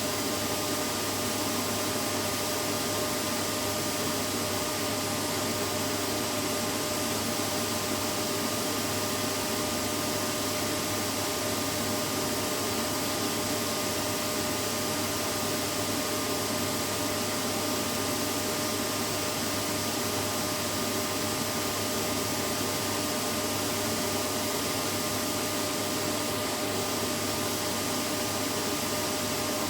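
Vacuum cleaner motor running at a constant speed: an even noise with a steady whine in it, with no changes.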